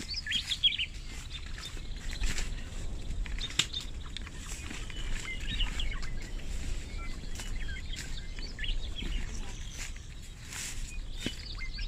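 Birds chirping outdoors in short bursts of quick high calls, a few seconds apart. Scattered sharp clicks and a low rumble run underneath.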